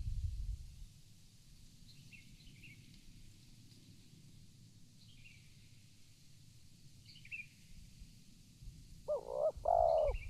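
Spotted dove cooing, two low notes near the end, over faint, scattered high chirps from a small bird.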